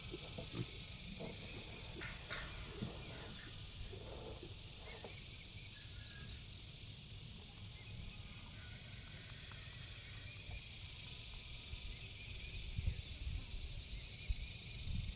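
Faint calls of farm animals over a steady high hiss, with low rumbling bumps near the end.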